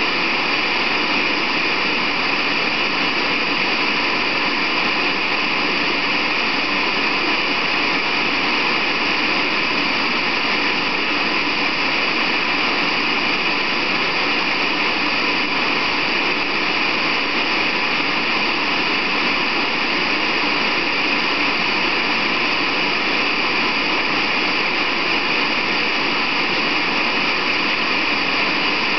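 Steady, unchanging white-noise hiss, with no breaks or changes, strongest in the upper-middle range.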